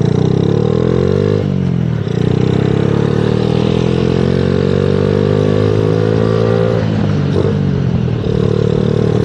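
Motorcycle engine accelerating through the gears: the pitch climbs, drops at a gear change about a second and a half in, climbs steadily again for about five seconds, then drops once more and settles to a steady note near the end.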